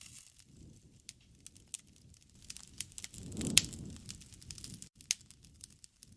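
Wood fire crackling, with scattered sharp pops. About three seconds in, a low rushing swell rises and peaks with the loudest pop.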